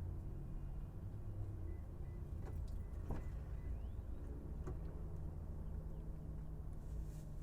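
Car engine running with a low, steady rumble, with a few faint clicks and a thin whistling tone that ends in a short rising glide in the middle.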